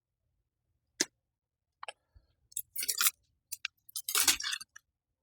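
Vine stems and leaves being handled: a sharp click about a second in, then scattered clicks and short bursts of crackling rustle.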